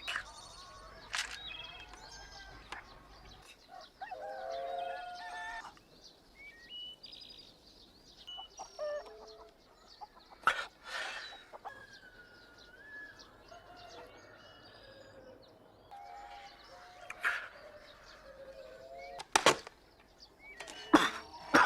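Farmyard birds, fowl, calling and clucking in short, varied calls, with a few sharp flaps or knocks in between.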